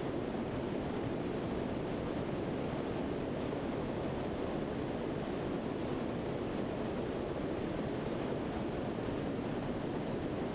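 Steady, even rushing drone of a C-130 turboprop aircraft in flight, heard from on board.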